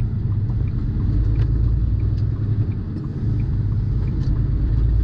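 Steady low rumble of a semi-truck's diesel engine and road noise heard from inside the cab while driving, with faint scattered ticks.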